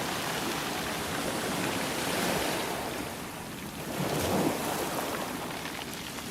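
Sea waves breaking and washing on the shore in slow swells, one peaking about two seconds in and a stronger one about four seconds in.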